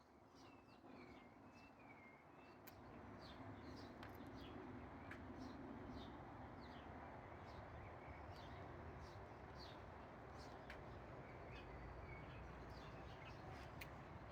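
Small birds chirping: many short, quick chirps scattered throughout, with a few wavering whistled notes in the first few seconds, faint over a steady low background rumble.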